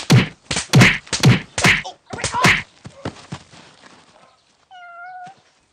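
A rapid string of loud slap sound effects, about five hard smacks half a second apart, trailing off into a few weaker hits. Near the end comes a brief high-pitched cry.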